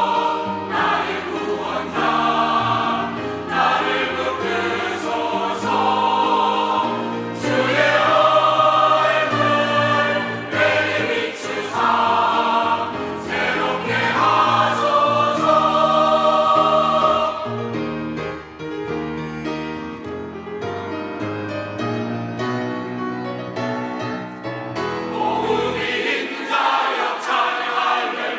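Church choir singing a sacred anthem in several parts. It softens about two-thirds of the way through, then swells again near the end.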